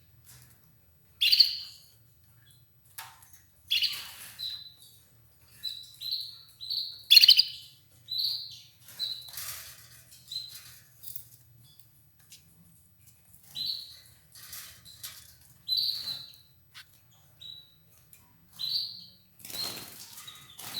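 Red ivory canary giving short, sharp chirping calls at irregular intervals, up to about two a second, with a pause of a couple of seconds near the middle.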